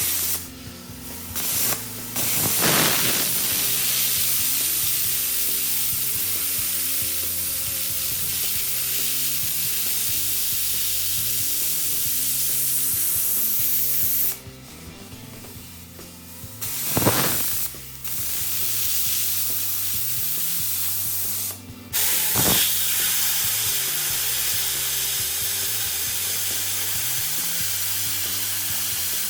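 Plasma cutter cutting steel plate: a steady hiss of the arc and air jet in three long runs, stopping briefly twice.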